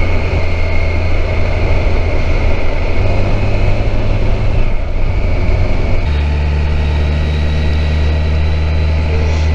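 Kawasaki Versys 1000 SE's inline-four engine running steadily while riding, its low drone shifting in pitch about three seconds and again about six seconds in.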